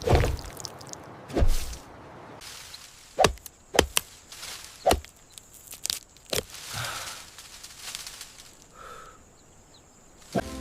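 A series of about seven sharp, irregularly spaced knocks or thuds, the loudest near the start and a few seconds in, over a steady outdoor background noise.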